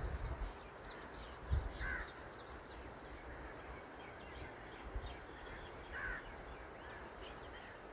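A bird calling twice, about four seconds apart, over faint chirping of other small birds, with a few low thumps.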